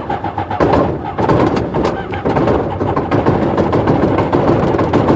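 Rotax aircraft engine being cranked by its electric starter with the choke on, labouring steadily without firing or picking up RPM: hard cranking on a hard start.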